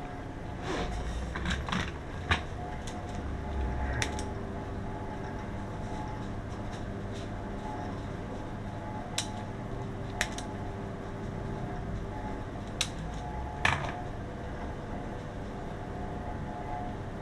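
A steady machine hum with a few held tones, with sharp clicks and knocks scattered through it, about eight in all.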